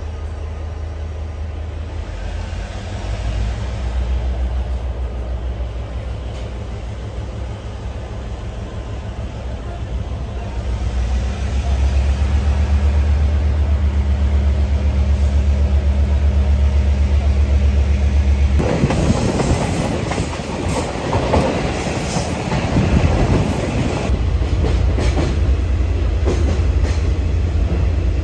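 Diesel-hauled train leaving a station, heard through an open carriage window: a steady low engine drone that grows louder as it pulls away. About two-thirds of the way through it changes abruptly to the train running along, with wind through the open windows and wheels clattering on the rails.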